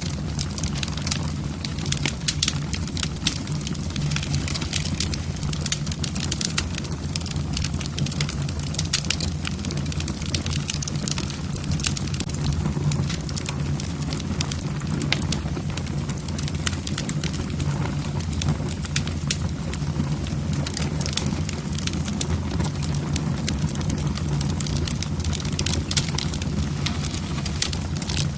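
Wood fire burning in a fireplace: a steady low rumble of the flames with logs crackling in many quick sharp pops throughout.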